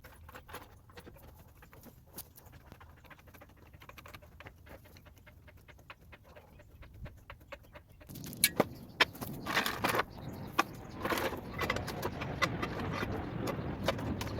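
Hands working with tools and metal parts: scattered light clicks and rustling, turning busier and louder about eight seconds in, with sharp metallic clicks and clinks over scraping and rustling.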